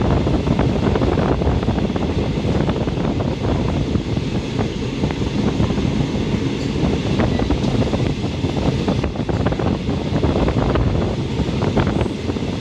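Running noise inside a moving passenger train: a steady rumble of wheels on the track with many small clicks, knocks and rattles, and wind noise.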